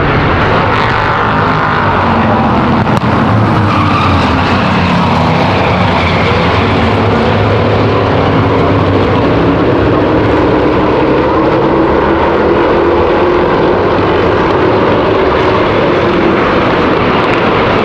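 V8 stock cars and race trucks running at racing speed, several engines overlapping, their notes slowly rising and falling in pitch.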